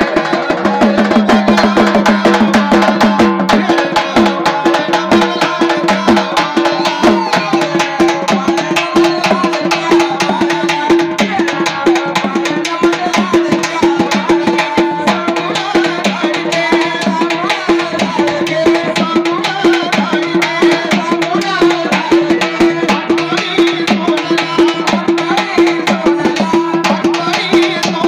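Marathi pāḷṇā (cradle song) folk music: a fast, steady beat of hand percussion over one long held drone note.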